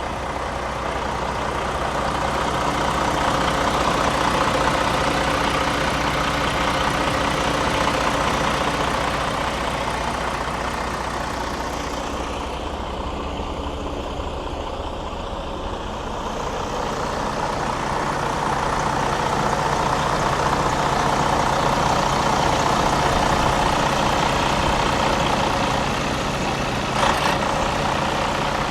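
Diesel engine of a 2020 Freightliner Cascadia semi truck running steadily, growing louder and softer in places. There is one short click near the end.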